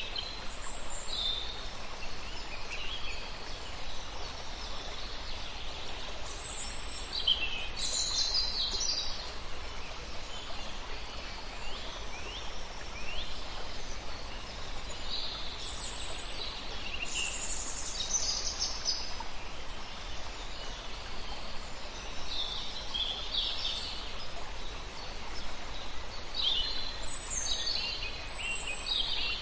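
Several wild birds chirping and trilling in short, high-pitched calls that come and go in clusters, over a steady background hiss of outdoor ambience.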